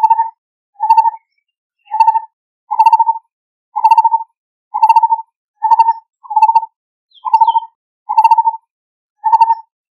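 Lineated barbet calling: a repeated low, hollow note at a steady pace of about one per second, each note a short rapid stutter.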